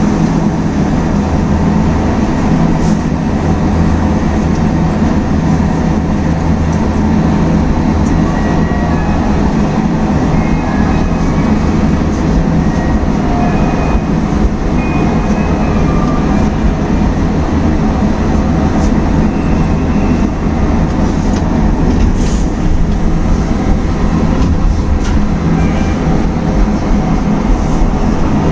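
Steady hum and rumble inside the cab of an Iyo Railway electric train standing at a station, while a train on the next track pulls out alongside.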